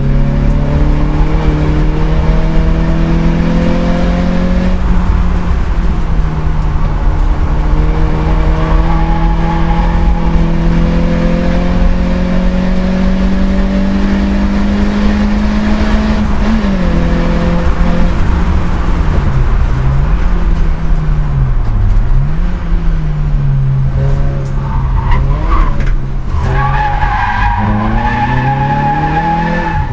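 In-cabin sound of a Citroën Saxo VTS rally car's four-cylinder engine under hard acceleration. The revs climb through the gears, fall sharply about halfway in under braking, then rise and fall several times through the bends. Tyres squeal near the end as the car corners.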